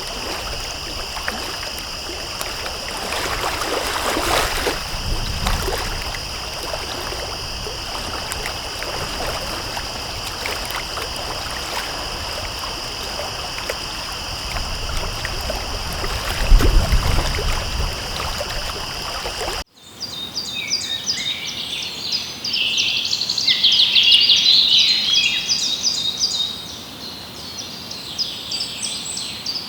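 Water of a stream running with a steady high-pitched drone over it. After a sudden cut about two-thirds of the way through, songbirds sing in rapid, repeated high trills.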